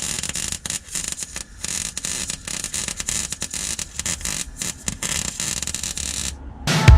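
Welding arc crackling and sputtering as a bead is laid. It stops abruptly about six seconds in, and music starts just before the end.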